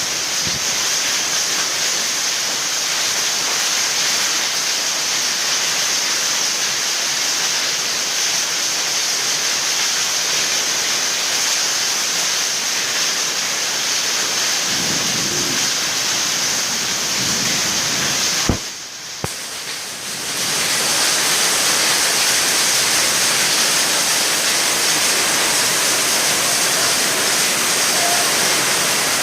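Heavy rain pouring steadily in a storm, a dense even hiss. About two-thirds of the way through, a sharp click and a brief drop in loudness for a couple of seconds before the downpour sound returns.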